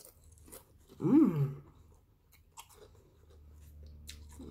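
Close-up chewing of a mouthful of tuna sub, with wet mouth clicks and some crunching. There is a short hummed vocal sound, like an appreciative "mm", about a second in.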